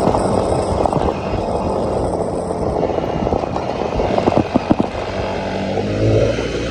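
ATV engine running steadily while riding a rough trail, with irregular knocks and rattles from the machine jolting over the ground. The heaviest clatter comes a little past the middle.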